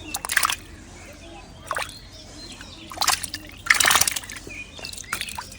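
Water splashing and sloshing in a handful of short bursts, the biggest a little under four seconds in.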